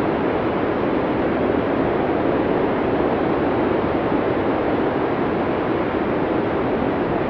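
Blizzard wind from a classic sound-effects library recording, blowing as a steady, even rush of noise with no gusts or whistles.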